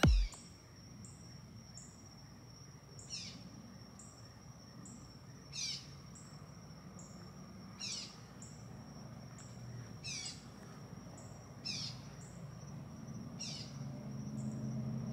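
Evening outdoor ambience: a bird gives a short, sharp downward call six times, about every two seconds, over a steady high-pitched insect trill and a faint low background rumble.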